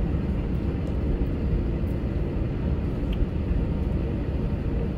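Steady low rumble of cabin noise inside an Airbus A321, with a faint steady hum.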